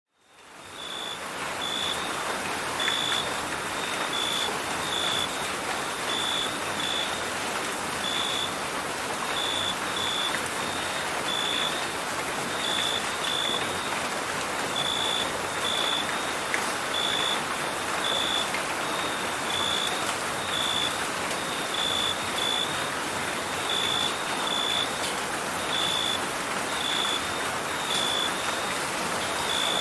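Steady rain falling, with a cricket chirping in short high pulses about once or twice a second; both fade in over the first second.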